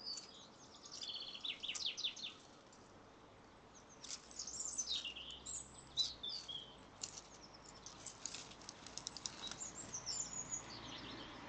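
Birds chirping and twittering in several bursts of quick, high notes, with a sharp click about halfway through.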